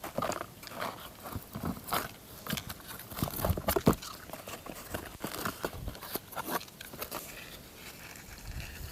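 Dry birch bark and small kindling being handled, torn and snapped by hand: irregular crackling and rustling with sharper snaps, busiest in the first seven seconds and quieter near the end.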